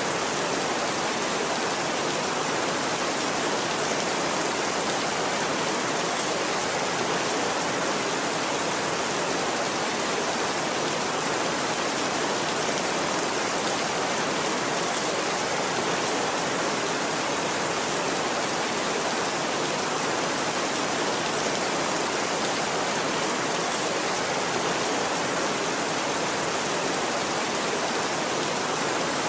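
Steady rain falling, a dense even hiss that neither swells nor breaks.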